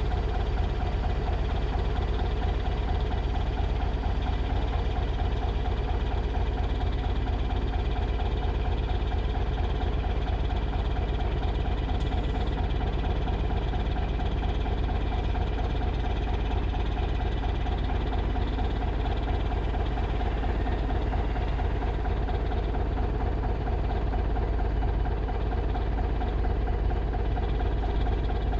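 Engine of a 1963 Volvo LM225 wheel loader running steadily at an even speed.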